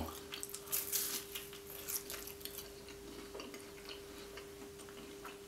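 Close-up chewing of a flaky pastry roll with spinach filling: soft wet mouth clicks and pastry crunches, busiest in the first couple of seconds and sparser after.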